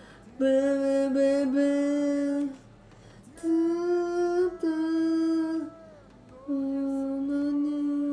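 A young woman singing a slow ballad, holding three long, steady notes in turn, each about two seconds, with short pauses between them.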